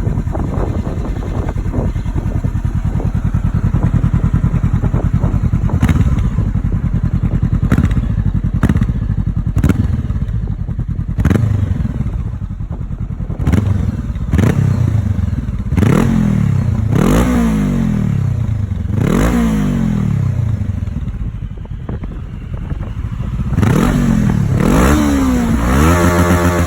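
Honda CBR400R's parallel-twin engine running through a BEAMS R-EVO titanium muffler: idling with short sharp cracks from the exhaust, then blipped several times, the revs rising and falling quickly with each blip.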